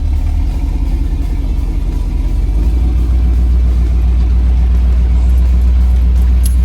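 A motor vehicle's engine running with a steady low rumble, growing slightly louder.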